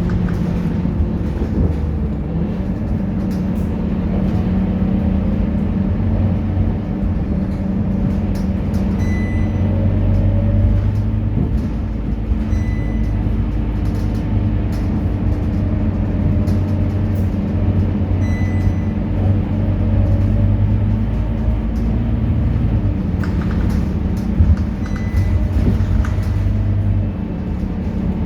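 Scania K230UB city bus's five-cylinder diesel engine running, its note shifting as the bus changes speed, with a few short high electronic beeps.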